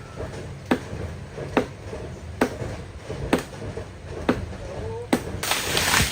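Axe chopping into wood in slow, even strokes, six blows a little under a second apart. Near the end a loud rush of noise follows.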